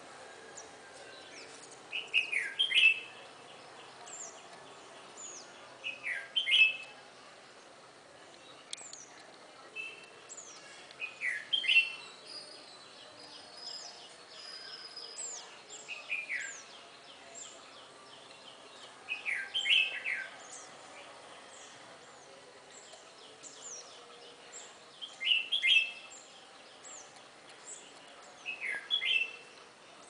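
Garden birdsong: one bird repeats a short phrase of quick downward-sweeping notes every three to five seconds, about seven times, while fainter high, thin chirps from other birds run between them.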